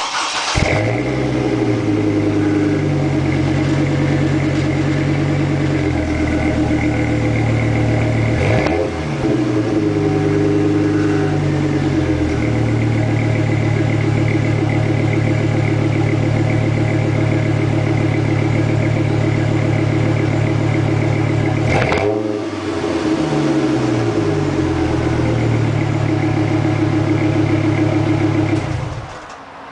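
Exhaust of a 2005 GMC Canyon's 3.5 L inline five-cylinder engine through a Flowmaster 40 Series cat-back muffler, running near idle. Three times the engine speed falls back and settles after a rise, and the sound stops suddenly near the end.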